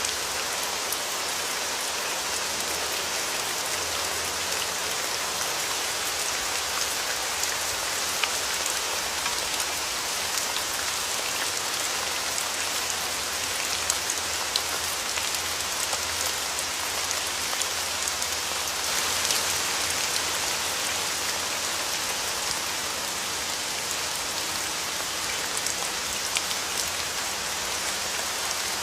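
Steady rain falling, an even hiss with scattered sharp drop ticks and a slight swell near the middle.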